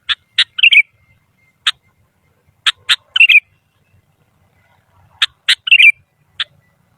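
Sooty-headed bulbul (kutilang) singing. It gives a short phrase three times, about two and a half seconds apart: two sharp notes and then a quick bubbly warble. Single sharp notes fall between the phrases.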